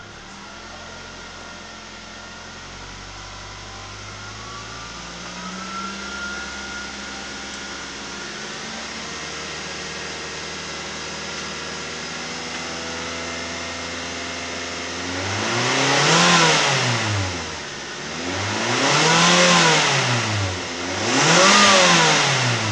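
Suzuki Kizashi's 2.4-litre four-cylinder petrol engine idling in park, then revved three times in quick succession near the end, each rev rising sharply and falling back, up to about 5,500 rpm. Heard from inside the cabin.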